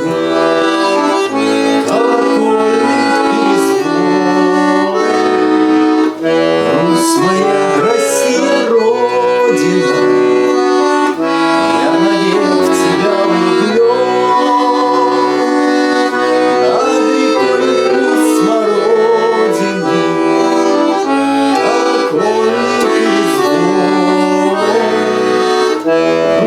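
Accordion music: held chords under a moving melody line, playing throughout.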